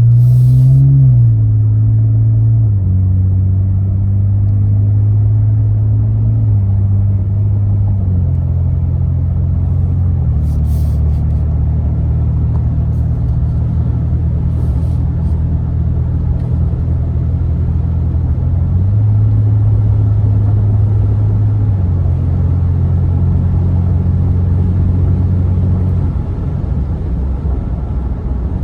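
2022 Nissan Frontier's 3.8-litre V6 running through its exhaust at low, steady revs with a deep, steady drone. The pitch steps up or down a few times and then holds.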